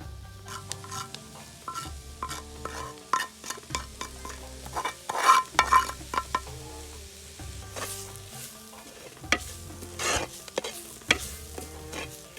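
A spoon stirring and scraping food frying in a cooking pot, with sizzling and sharp knocks of the spoon against the pot. The knocks are loudest and most frequent about five seconds in.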